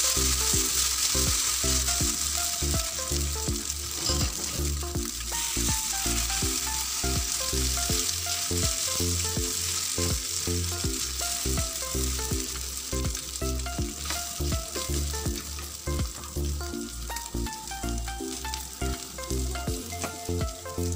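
Maggi noodle and egg mixture sizzling and frying in hot oil on a flat iron griddle while a spatula spreads it out. The sizzle is loudest at first and eases a little later on. Background music with a steady beat plays underneath.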